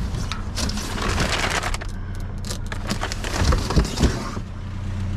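Clicking, rattling and knocking of a case of beer being handled and moved, with a few louder knocks around the middle. A steady vehicle engine hum runs underneath.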